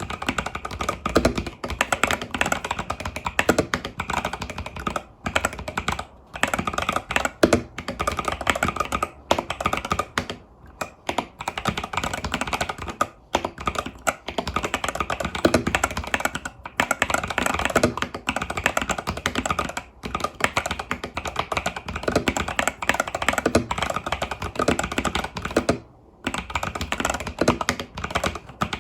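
Fast continuous typing on an Epomaker TH80 Pro mechanical keyboard with Epomaker Budgerigar tactile switches and stock keycaps: rapid key clacks, with a few brief pauses, the longest about 26 seconds in.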